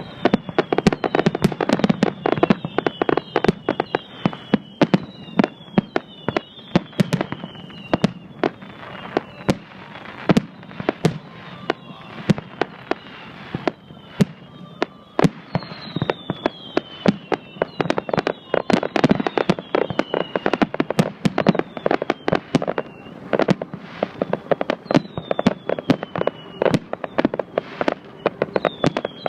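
Fireworks display going off in a dense, continuous barrage of sharp bangs and crackles, several a second, with many short high whistles falling in pitch over them.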